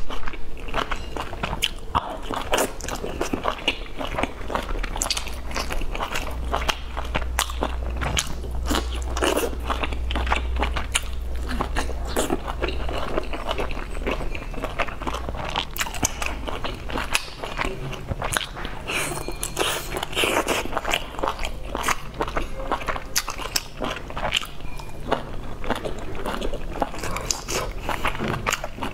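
Close-miked biting and chewing of soft dumplings, with many small irregular mouth clicks.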